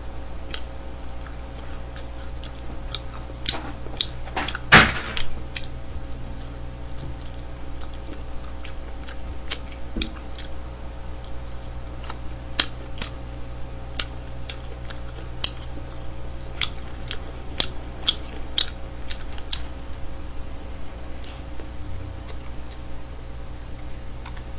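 Close-miked chewing and lip smacking of a person eating smoked chicken by hand: irregular short wet clicks, one louder about five seconds in, over a steady low hum.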